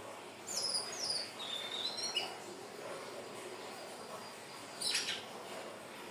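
Indigo flycatcher (sikatan ninon) singing: a quick run of high, thin, falling notes in the first two seconds, then a brief sharp note about five seconds in, over steady background hiss.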